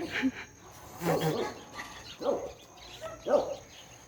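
A dog barking, three short barks about a second apart.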